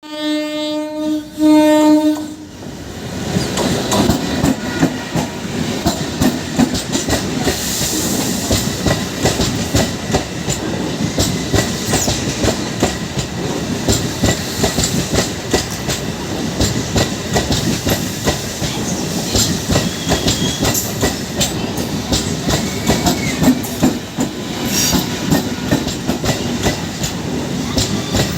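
Passenger express train sounding its horn in two short blasts at the start, then the steady rattle and clickety-clack of its wheels running over the rail joints.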